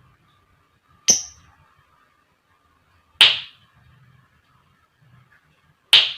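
Lovebird giving three single shrill calls, about two to three seconds apart, each sharp at the start and cut short.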